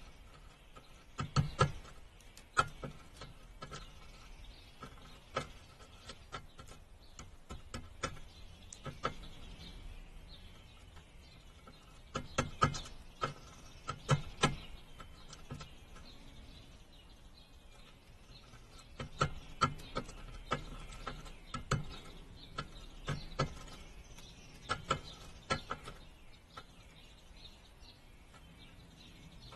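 Irregular clusters of sharp taps and clicks, a few at a time with pauses of several seconds between clusters, over a low outdoor background.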